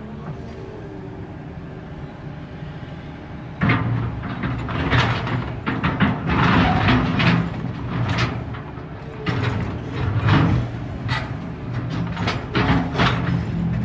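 A Volvo EC380EL excavator's diesel engine runs steadily. About four seconds in, a sudden loud crash starts a long run of irregular heavy bangs and scraping: rock against steel as the machine handles and loads large rocks.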